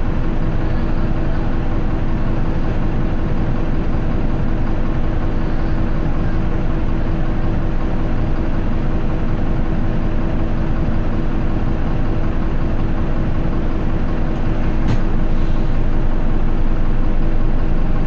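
Running sound of an Isuzu Erga Mio city bus (QDG-LV290N1) heard from inside the cabin: the diesel engine and drivetrain hold a steady drone with a constant whine. It gets a little louder about fourteen seconds in, with a single click shortly after.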